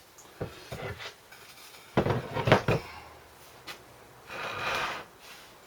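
Small engine parts being handled on a workbench: scattered clicks and knocks, a louder clatter of knocks about two seconds in, and a brief rubbing sound about four and a half seconds in.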